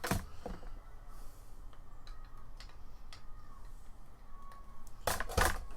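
Light clicks and ticks of small metal parts of a string trimmer attachment being handled while grease is applied, with a louder clatter of two knocks about five seconds in.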